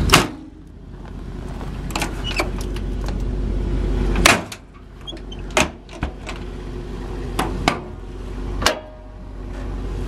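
Metal compartment doors and latches on a pickup's service body clunking open and shut, a string of separate knocks every second or two over a steady low rumble.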